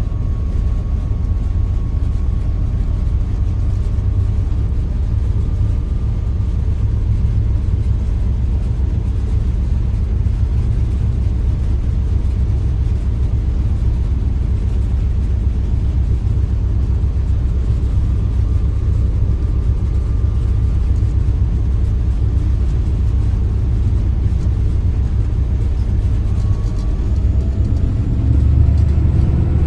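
GMU-30 diesel-electric locomotive running at speed, heard from inside the cab: a steady low rumble of engine and wheels on the track, growing slightly louder near the end.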